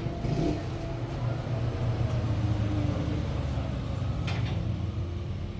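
A motor vehicle engine running with a steady low hum, and a short sharp click about four seconds in.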